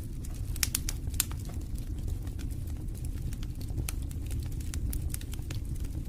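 Wood fire burning in a fireplace: a steady low rumble of flames with sharp crackles and pops, several close together about a second in.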